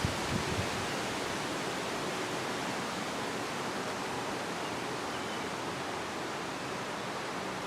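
Steady rush of wind, with a few low buffets of wind on the microphone in the first second.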